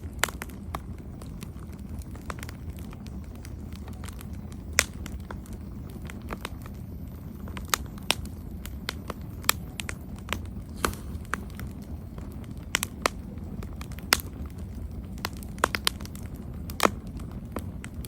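Campfire burning steadily with a low rumble of flame and irregular crackles of burning wood, several sharper pops among them.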